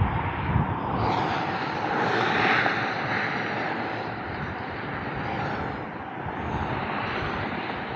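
Autobahn traffic: a steady rush of tyres and engines from fast-moving vehicles, swelling as a louder vehicle passes about two to three seconds in.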